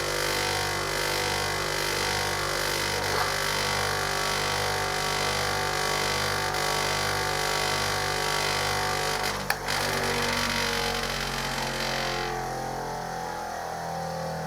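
Bench grinder running with chisel steel being ground on its wheel, a steady hum under a hiss of grinding. About ten seconds in there is a sharp click, then the grinding hiss stops and the motor's hum slides lower in pitch as the wheel slows down.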